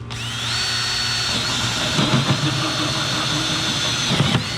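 Power drill with a hole saw spinning up with a rising whine, then running at a steady high whine as it cuts into the plastic wall of a 5-gallon bucket, with rough grinding from about a second and a half in. The drill stops briefly near the end and starts again.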